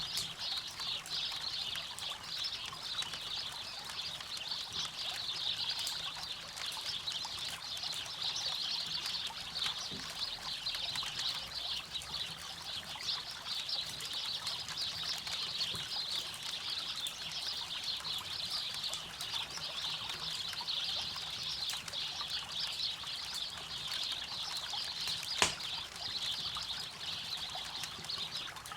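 Campfire crackling over the steady rush of a flowing river, with one sharp pop from the fire near the end.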